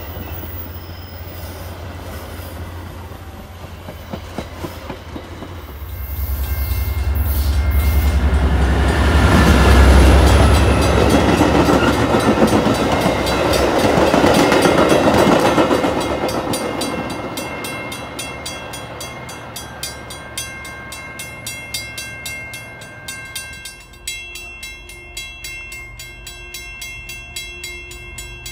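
Metra bilevel commuter train passing close by, its rumble and wheel clacks building to a peak about ten seconds in and then fading away. As it fades, a railroad grade-crossing bell rings steadily.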